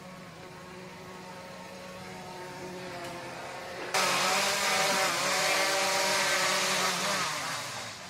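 A motor hums steadily. About four seconds in, a much louder, engine-like noise cuts in suddenly, holds with a wavering pitch, and fades away near the end.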